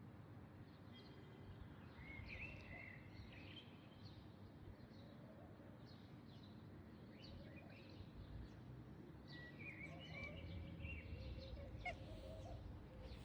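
Faint bird calls: short, high chirping notes in two clusters, about two seconds in and again near ten seconds, over a low steady background hum.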